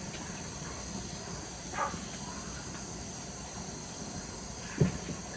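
Steady high chirring of evening crickets and insects, with a short soft knock about two seconds in and a sharper low thud near the end, like a bowl or dish being set down.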